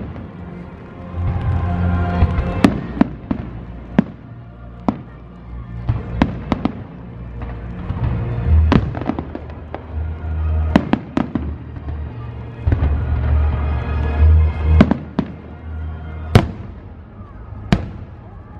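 Fireworks bursting overhead: sharp bangs and cracks at irregular intervals, some in quick clusters, the loudest two near the end. Music plays steadily underneath.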